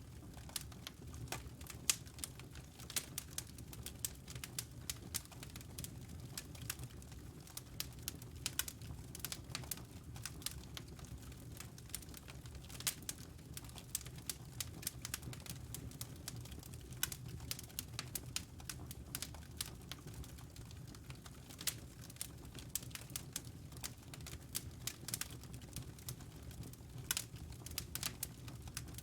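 Wood fire crackling in a fireplace: a steady low rumble of flame under many quick, irregular snaps and pops, a few of them louder.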